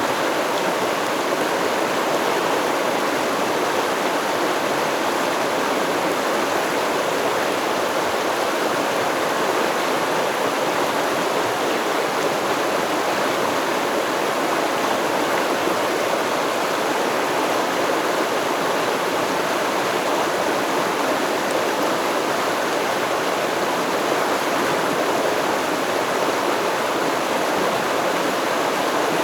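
Stream water flowing and babbling steadily, with no breaks or changes.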